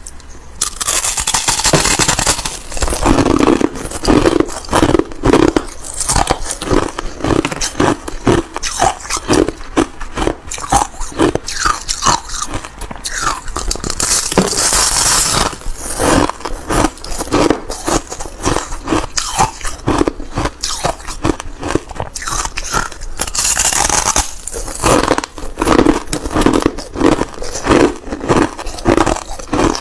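Thin sheets of ice being bitten and chewed close to the microphone: a dense, continuous run of sharp cracking crunches over a steady chewing rhythm, with two louder stretches of crackling about halfway through and again near the end.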